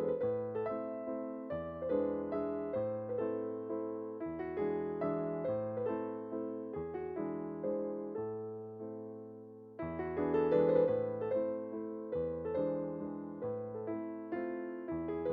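Background piano music: a gentle melody over repeating chords, pausing briefly about ten seconds in before the phrase starts again.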